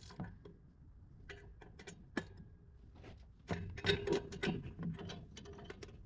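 Scattered small clicks and taps of hands and metal tools working loose manifold bolts in a car's engine bay, busiest a little past halfway.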